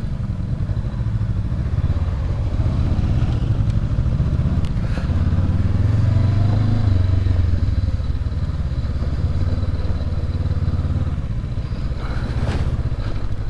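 Honda CB500X's parallel-twin engine running at low speed on a rough trail, its pitch rising and falling with the throttle. A couple of sharp knocks come near the end.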